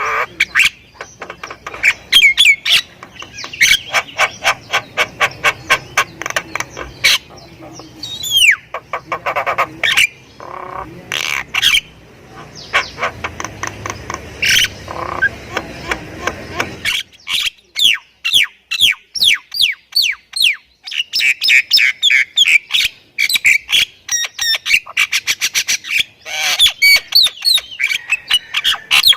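Jalak kebo (myna) singing a long, rapid chattering song: quick runs of clicks and dry rattles mixed with whistled glides and harsh squawks, packed with mimicked calls. A low background hum stops about two-thirds of the way through.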